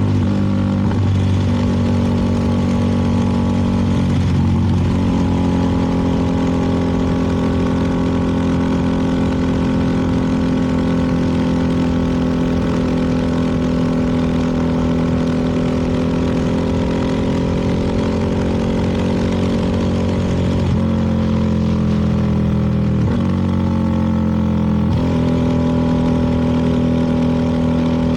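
Single-cylinder CFMoto 300NK motorcycle engine running at a steady cruise. Its engine speed drops and picks up again a few times, around 4 seconds in and again after 20 seconds.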